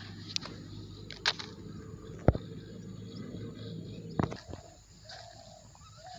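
Outdoor riverbank sound: a steady low hum with four sharp clicks and knocks, the loudest a little over two seconds in, then quieter. A short bird call comes near the end.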